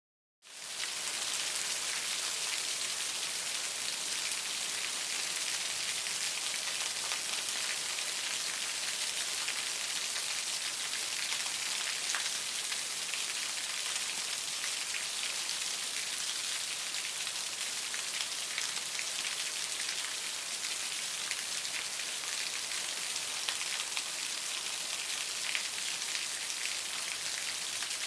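Very heavy rain falling steadily: a dense, even hiss with scattered drop ticks, fading in quickly about half a second in.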